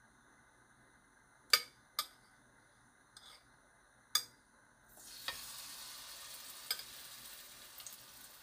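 Four sharp clicks of metal tongs against a glass batter bowl, then from about five seconds in a steady sizzle as a batter-coated zucchini slice starts frying in hot oil in a non-stick pan.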